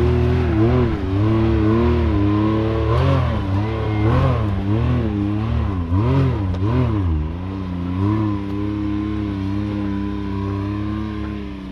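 Side-by-side UTV engine revving up and down in quick repeated swings as the throttle is worked, then settling to a steadier, slightly quieter note near the end.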